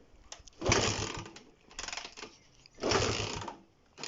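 Honda CB125 RS engine turned over twice, each time a short mechanical whirr of about half a second, without firing: the engine has just flooded.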